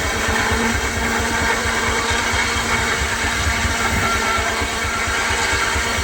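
Baker steam traction engine running steadily under belt to the Frick sawmill, with a fast, even low pulsing and a steady hum throughout.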